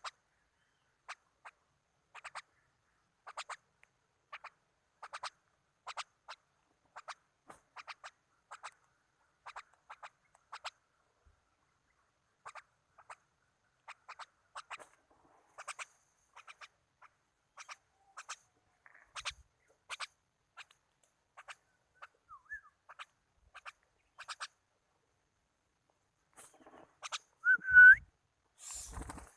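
Bird chirping in short, sharp calls, one or two a second, in a steady run. Near the end comes a louder rising whistled call.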